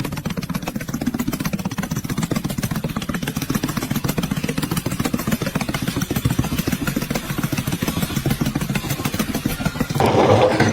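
An engine running steadily with a fast, even pulsing. About ten seconds in it breaks off suddenly into a different, louder sound.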